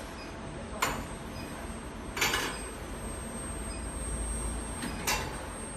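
Induction forging machine running: a steady hum with a thin, high, steady whine. Over it come three short, sharp, hissing-clanking noises, spaced about two to three seconds apart, from the machine's working cycle.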